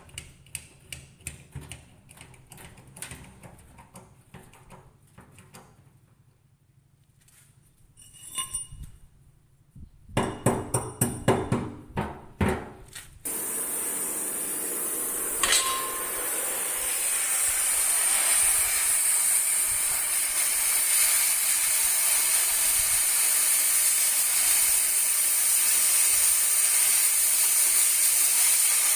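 A hammer knocking on metal over and over, with a run of louder, quicker strikes. Then a steady, loud hiss starts abruptly and keeps going.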